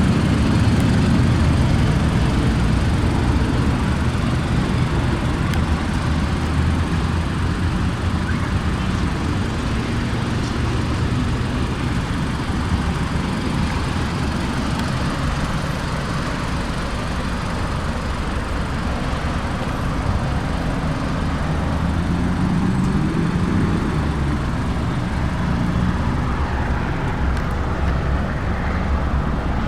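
2015 Mazda CX-5's 2.5-litre inline-four engine running steadily, its pitch drifting slightly up and down.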